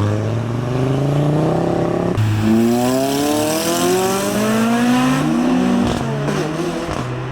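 A car engine running, then from about two seconds in a car accelerating hard, its engine note climbing steadily for about three seconds before dropping back to a lower, steadier note.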